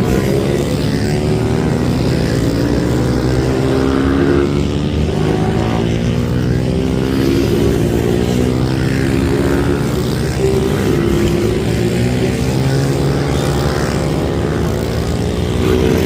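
Several racing minibike engines revving hard together, their overlapping notes rising and falling in pitch as the riders accelerate and shift through the gears.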